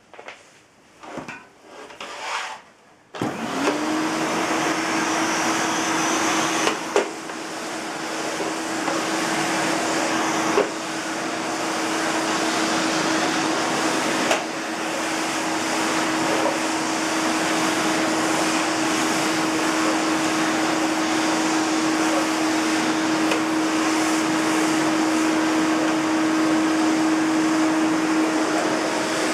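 1984 Elektro Helios ES908E vacuum cleaner with an 850 W motor: a few knocks as it is handled, then about three seconds in the motor switches on, spins up quickly and runs steadily with a whirring whine and an airflow rush, and a few sharp knocks along the way.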